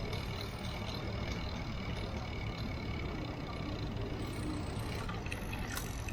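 Steady low rumble of road traffic, with a few sharp clicks near the end.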